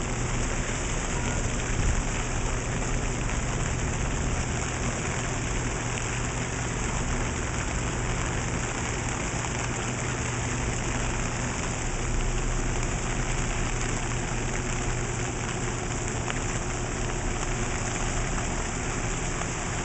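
Steady rain falling on an umbrella overhead and on the surrounding garden, an even hiss with a faint steady low hum beneath it.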